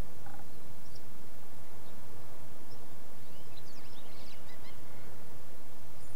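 Birds chirping: a quick cluster of short, high calls about halfway through and a few single chirps elsewhere, over a steady low rumble.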